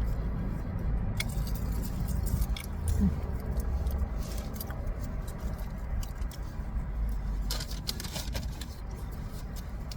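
Burrito being bitten into and chewed, with scattered crinkles and clicks of its wrapper, over the steady low rumble of an idling vehicle.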